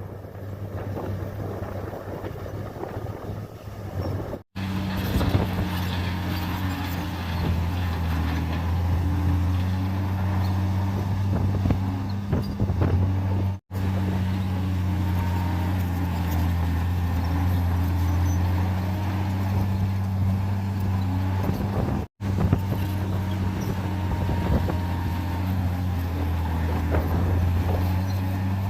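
Bulldozer diesel engines running steadily under load with a deep, even drone. The sound drops out sharply three times.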